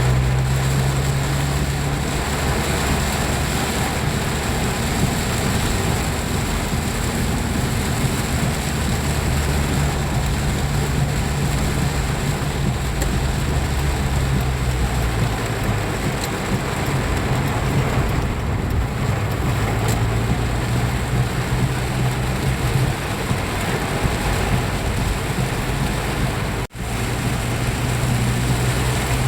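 Heavy tropical downpour falling in a steady, dense hiss, with a vehicle engine running underneath. The sound drops out briefly near the end.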